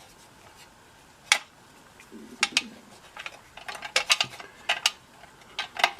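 Small metal mounting hardware (potentiometer nuts and washers) being handled, with sharp clicks and clinks of metal on metal, sparse at first and then coming in quick clusters.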